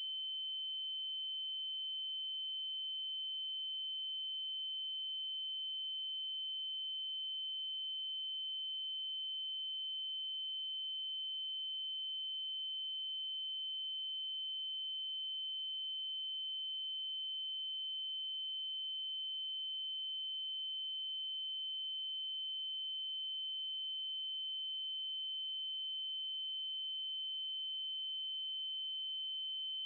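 Synthesized 3072 Hz triangle-wave tone, a steady high-pitched electronic pitch held without change, with faint overtones above it.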